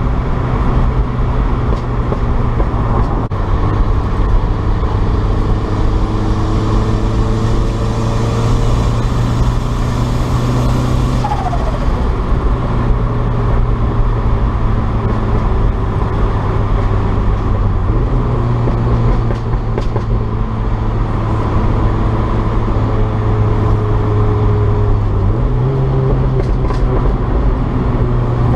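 Turbocharged Mazda MX-5 1.6 engine with a straight-through exhaust running at a steady cruise, with road noise. The engine note drops a little about two-thirds in and rises again near the end.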